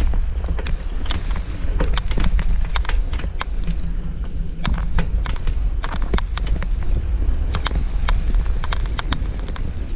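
Wind buffeting the microphone during a bicycle ride, with a loud steady low rumble and many short irregular clicks and rattles.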